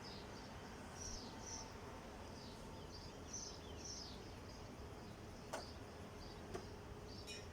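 Faint, repeated short, high bird chirps, some sweeping downward, over steady room hiss, with a few sharp clicks in the second half.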